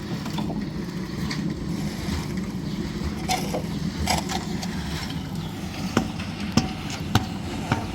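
An engine running steadily, with four sharp knocks about half a second apart in the second half.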